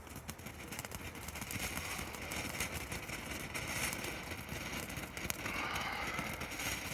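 Fountain firework spraying sparks with a steady hiss that builds over the first second or so.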